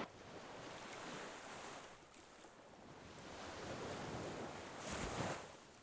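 Faint sea waves washing against the shore, swelling and fading, with one louder surge about five seconds in.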